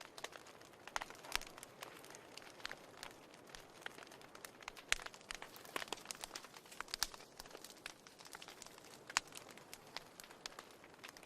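Wood fire in a fireplace crackling and popping: soft steady hiss with irregular sharp snaps, a few louder pops among them.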